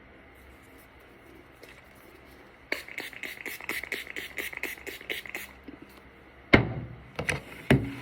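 A quick run of light taps or clicks, about four or five a second for nearly three seconds. Then three louder knocks, like small objects being set down on a hard surface.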